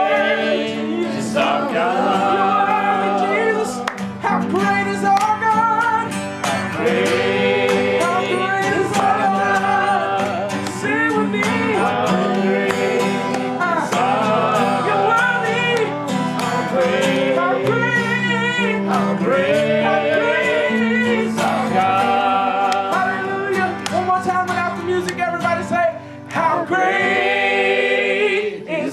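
A group of voices singing a praise song together, with guitar strumming chords underneath.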